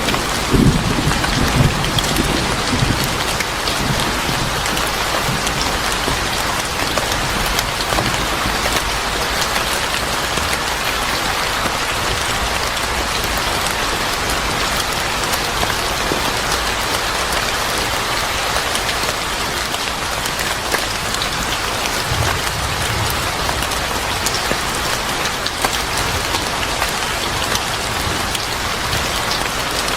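Steady heavy rainfall pattering on a surface, with scattered sharp crackles of a wood fire mixed in. A low rumble of thunder fades out over the first couple of seconds.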